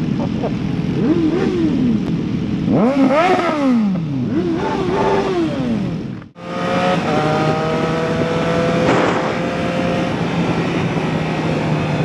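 Motorcycle engines revving, the pitch rising and falling sharply several times in quick succession. After a brief cut about six seconds in, an engine pulls steadily with a slowly rising pitch as it accelerates.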